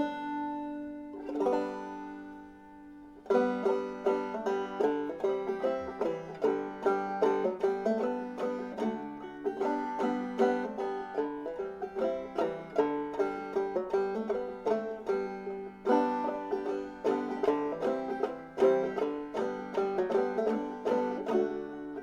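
Bruce Berry banjo with cherry and ebony wood, raw brass and a Whyte Laydie tone ring, fitted with a crocheted damper, being played. A few picked notes and a chord are left to ring and fade, then quick, steady picking runs from about three seconds in.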